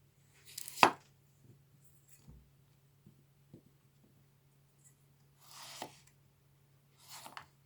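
Small vegetable knife slicing a carrot lengthwise on a board: a sharp crack a little under a second in, then two softer slicing rasps near the end. The blade meets some drag in the carrot.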